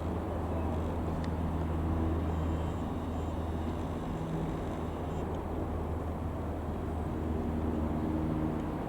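Piper PA-28-180 Cherokee's four-cylinder Lycoming piston engine and propeller droning steadily as the light aircraft flies over, with a low hum that swells slightly twice.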